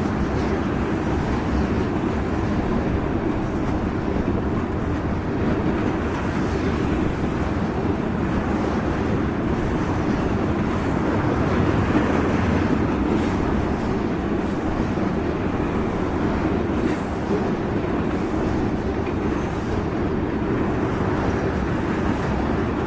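Freight train tank cars rolling by on the track: a steady rumble of steel wheels on rail, with a few faint clicks.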